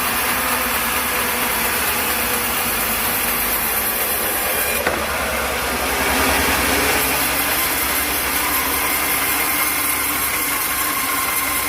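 Engine-driven sawmill running steadily, with one sharp click about five seconds in.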